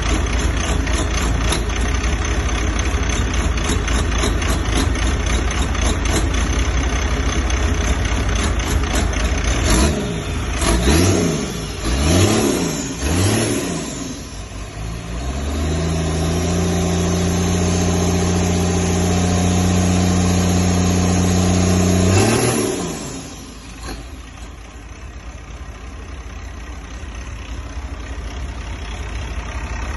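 Freshly rebuilt International DT466 inline-six diesel running: it idles steadily, is revved up and down three times about ten seconds in, is held at high revs for several seconds, then drops back to a lower, quieter run.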